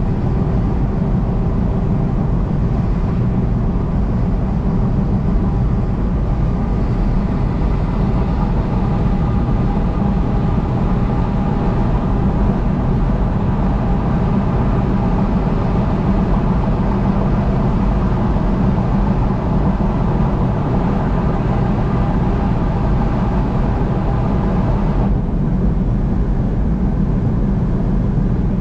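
Steady road and engine noise of a vehicle driving at highway speed, heaviest in the low end. The higher hiss drops away about 25 seconds in.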